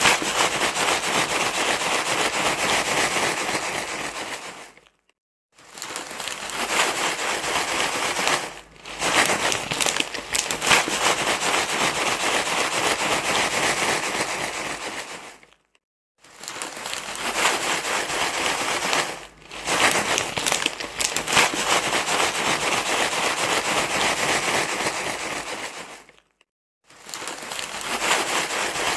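Continuous crinkling and rustling, like something being crumpled in the hands, played as a loop to calm a crying baby. It breaks off for about half a second roughly every eleven seconds, three times here, where the loop restarts.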